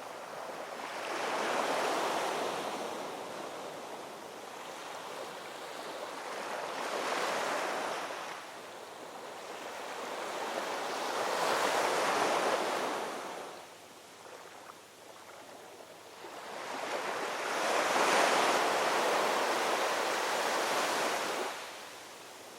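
Ocean waves breaking and washing up on a shore, rising and falling in four slow surges about five seconds apart, the last one longer and louder, before dropping away near the end.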